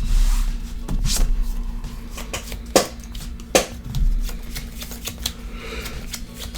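Trading cards being shuffled and handled on a table as a game starts, with scattered clicks and two sharp taps, a little under three and about three and a half seconds in.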